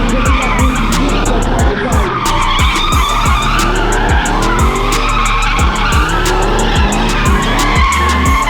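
Car tyres squealing and skidding with engines running hard, typical of spinning or drifting, mixed with background music that has a steady beat of about two thumps a second.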